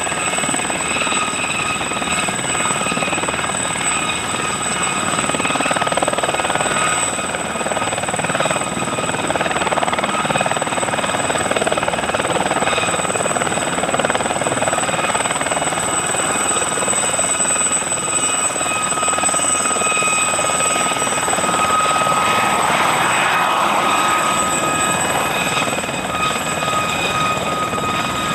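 Helicopter running steadily overhead, a constant engine and rotor noise with a steady high whine.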